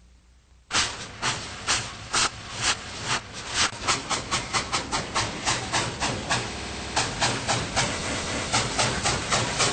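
A train getting under way: loud rhythmic beats start about a second in and come faster and faster as it picks up speed.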